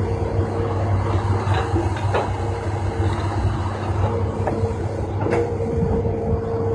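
Heavy diesel earthmoving machinery running steadily, with a few short knocks over the engine drone.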